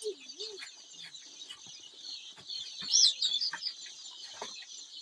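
A crowd of young chicks peeping continuously in high, thin chirps, with a louder cluster of peeps about three seconds in. Faint scattered taps sound under the peeping.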